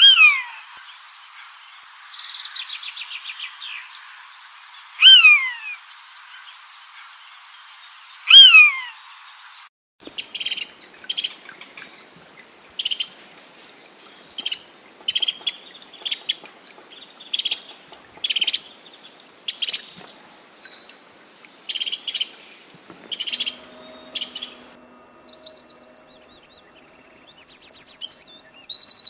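Birds calling, one after another: first three loud whistles that slide downward in pitch, a few seconds apart. Then a short, sharp call repeated about once a second, and near the end a fast, high-pitched twittering.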